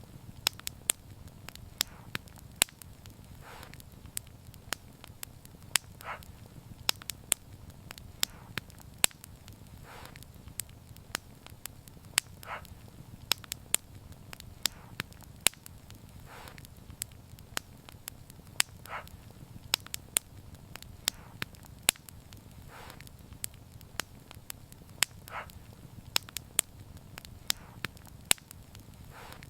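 Wood fire crackling: frequent sharp, irregular pops and snaps over a steady low rumble, with softer, longer puffs every two to four seconds.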